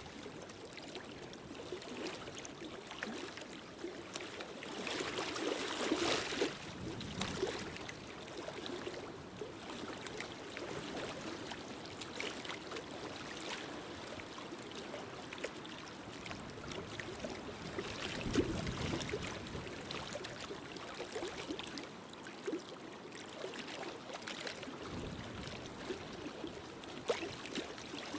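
Wood fire in a fireplace crackling, with a steady hiss and scattered sharp pops. It swells louder about five seconds in and again about eighteen seconds in.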